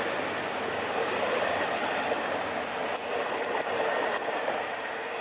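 A train running on the rails: a steady rumbling noise with a faint held tone, and a few quick high clicks about three seconds in.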